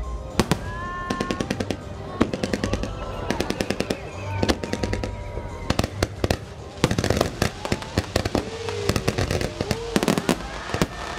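Aerial fireworks display with shells bursting overhead in a steady barrage of bangs, broken by runs of rapid crackling pops from the crackle shells.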